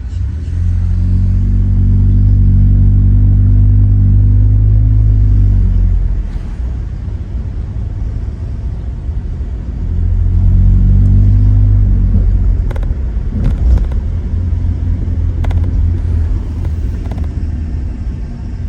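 2017 Honda Accord LX's four-cylinder engine through a muffler-deleted exhaust, heard from inside the cabin with the windows down: a loud, steady exhaust drone under acceleration twice, easing back to a lower rumble of cruising in between and afterwards.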